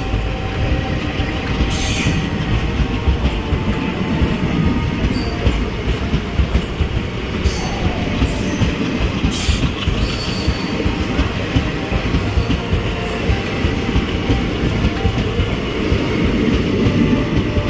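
Passenger train running along the track: a steady rumble of wheels on rails with a rhythmic clickety-clack, and a few sharp clicks about 2 and 9 seconds in.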